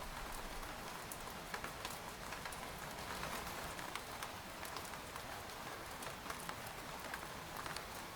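Rain falling on a tent: a steady hiss of rainfall with many scattered individual drops ticking sharply on the fabric.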